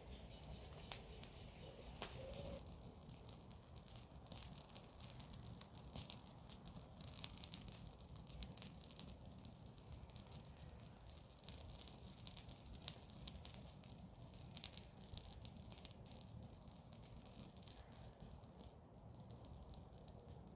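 Garden-waste bonfire crackling: many irregular sharp snaps and pops, thickest in the middle stretch, over a faint low rumble.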